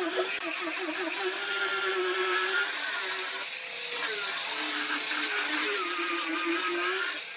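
Power tool working wood, its motor hum wavering in pitch as the load changes, with a hiss of cutting.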